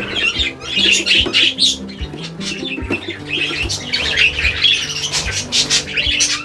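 Budgerigars chattering and squawking continuously over background music with a slow, stepping low melody.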